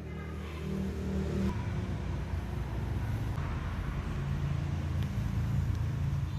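Motor vehicle engine and road noise: a steady low engine hum that builds over the first couple of seconds and then holds.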